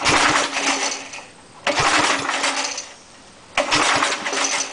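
Briggs & Stratton small engine on an air compressor being pull-started with the choke on: three pulls of the recoil starter, each about a second of cranking with a few compression thuds, and the engine does not catch.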